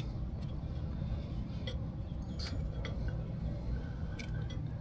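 A few faint, light clicks and taps of a small bolt being threaded in by hand on the ATV's oil filter cover, over a steady low background rumble.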